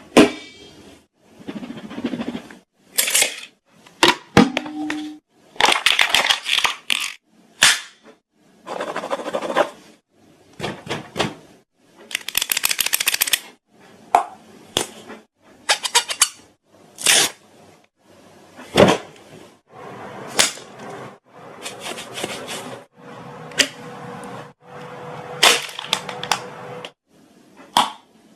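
A quick string of short, varied sound effects: sharp clicks and pops, bursts of hiss lasting about a second, and a few brief pitched notes, one after another with short gaps between.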